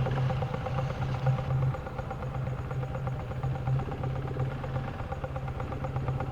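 Single-cylinder trail motorcycle engine running at a steady pace, easing off slightly about two seconds in.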